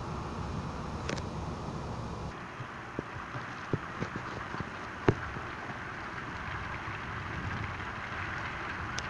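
Steady rain during a thunderstorm. Wind buffets the microphone at first and drops away a couple of seconds in. A few sharp taps come through, the loudest about five seconds in.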